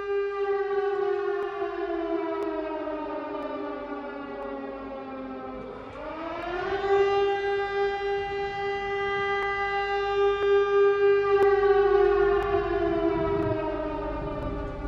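A siren wailing. Its pitch slides slowly down, climbs back up quickly about six seconds in, holds steady for a few seconds, then slides slowly down again near the end.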